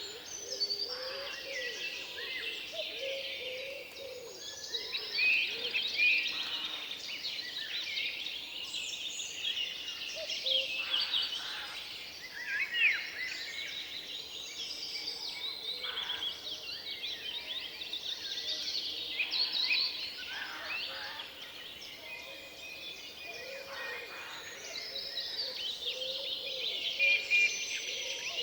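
Forest songbirds singing together, many overlapping chirps, trills and whistles, with a few lower calls mixed in and several single calls standing out louder.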